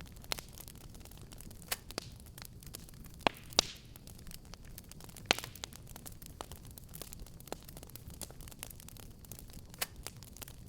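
Wood fire burning in a fireplace: a steady low rumble with scattered crackles and sharp pops, a few louder pops about a third and half way in, one followed by a brief hiss.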